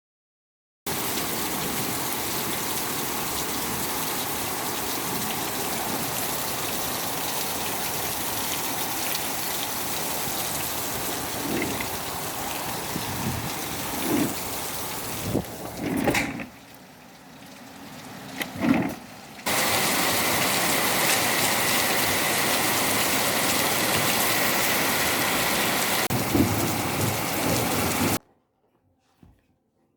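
Heavy rain falling in a steady hiss that starts about a second in, drops quieter for a few seconds past the middle, returns louder and cuts off suddenly near the end. A few low thumps come in around the middle.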